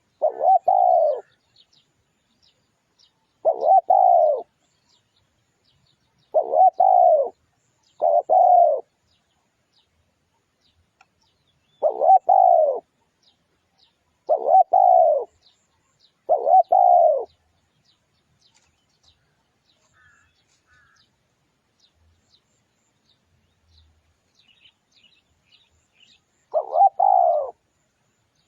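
Spotted dove cooing: about eight short coo phrases of a few notes each, spaced a few seconds apart, with a long pause before one last phrase near the end. Faint high chirping of small birds runs behind.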